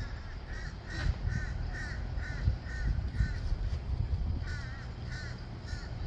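A bird calling in a series of short, harsh, repeated notes, about two a second, with a break of about a second in the middle before the calls resume.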